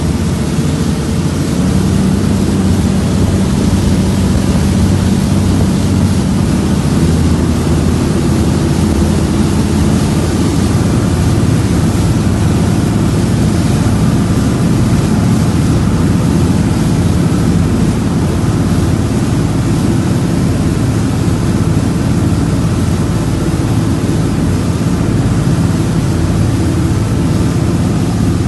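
Express passenger boat's diesel engine running steadily at racing speed, a low drone under a constant hiss of wind and water.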